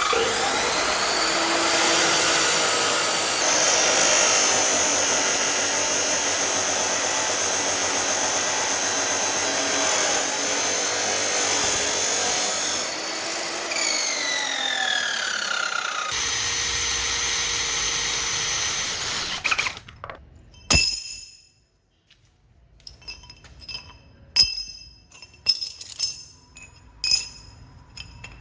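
A power tool runs loud and steady for about twenty seconds, its pitch shifting now and then, then stops. A series of short, sharp clinks follows.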